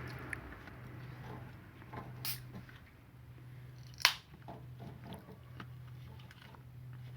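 Small clicks and rattles of hands and tools working on a washing machine's drain pump as it is fitted, with one sharp click about four seconds in, over a steady low hum.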